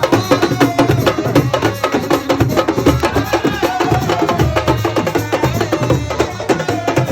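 Music driven by fast, dense drumming, the strokes coming several times a second without a break.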